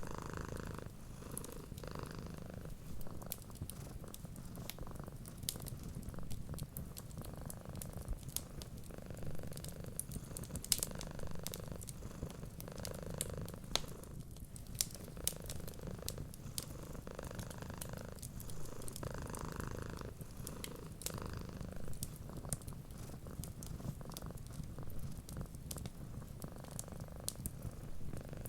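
Domestic cat purring in a steady low rumble that swells and eases every couple of seconds, over the scattered small pops and crackles of a fireplace fire.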